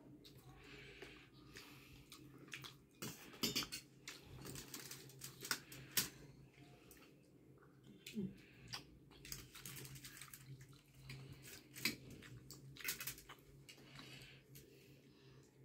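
Eating sounds at close range: scattered clicks and clinks of utensils and dishes, with chewing, over a low steady hum.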